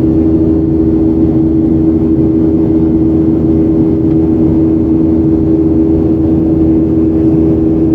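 Boeing 737-800 cabin noise in flight: the CFM56-7B turbofans running steadily with a strong, even hum over the rush of airflow past the fuselage.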